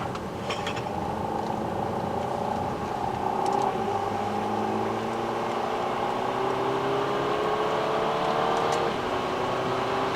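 Car engine accelerating, its pitch climbing steadily as the revs rise, with a drop in pitch at a gear change about four seconds in and another about nine seconds in.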